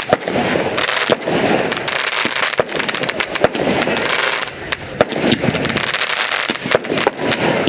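Fireworks display going off: a quick, irregular string of sharp bangs over dense crackling.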